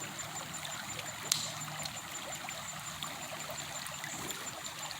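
Creek water trickling steadily, with a single sharp click about a second in.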